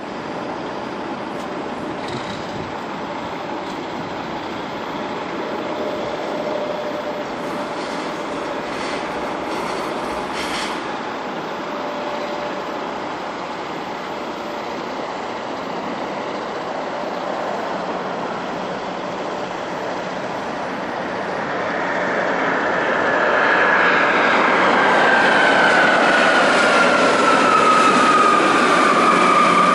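Boeing 777-300ER's GE90-115B turbofan engines on final approach: a steady jet rumble that swells louder about two-thirds of the way in, with a whine that slides down in pitch as the airliner closes in.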